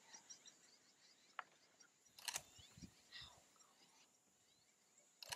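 Near silence with faint, scattered small bird chirps, broken by two sharp clicks, one about two seconds in and one at the end.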